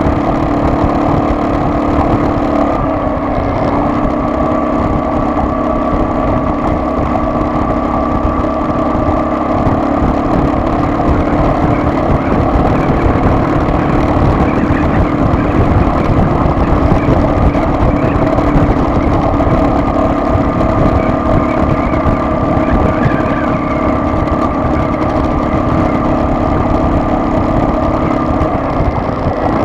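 Car driving along, a steady engine drone over road rumble, its pitch dipping slightly about three seconds in and rising again near the end.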